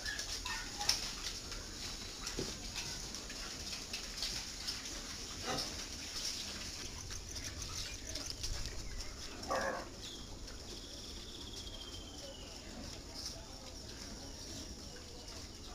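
Pigs in a pen making scattered short grunts and noises, with one louder call about nine and a half seconds in. A thin, slightly falling whistle-like tone follows it for a couple of seconds.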